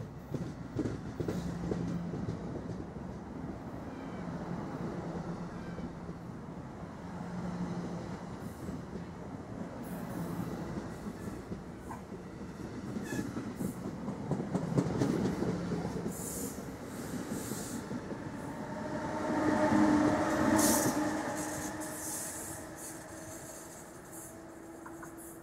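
NJ Transit double-deck commuter train rolling past along the platform, a steady rumble of wheels on rail. It swells to its loudest about twenty seconds in with a ringing tone over the rumble, then fades away.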